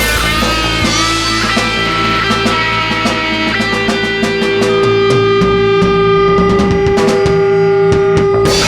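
Live rock band playing an instrumental passage with electric guitars and drum kit, with a long held guitar note in the second half.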